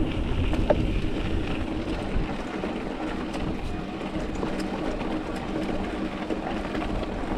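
Mountain bike rolling over a dirt and rock trail: a steady rumble of tyre and wind noise, with scattered small clicks and rattles from the bike.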